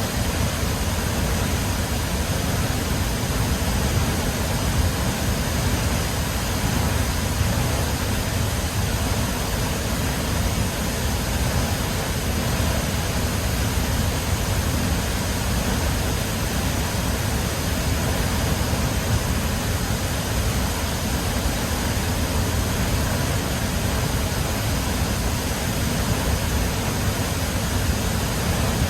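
Large waterfall rushing steadily, a constant wash of water noise with a heavy low rumble.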